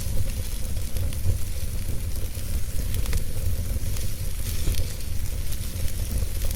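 A wood fire burning: a steady hiss with frequent small crackles and pops scattered irregularly through it, over a constant low rumble.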